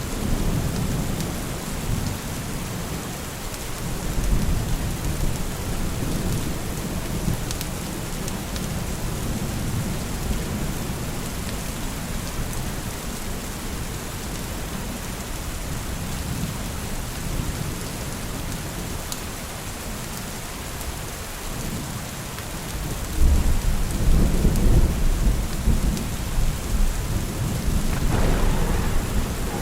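Steady rain with thunder rumbling throughout; the thunder swells louder about three-quarters of the way in.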